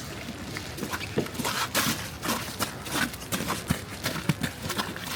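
Footsteps on hard pavement: irregular taps and clicks, several a second, over a steady hiss of city street noise.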